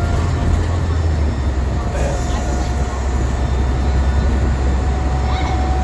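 City bus running, heard from inside the cabin: a steady low engine and road rumble with a faint thin whine.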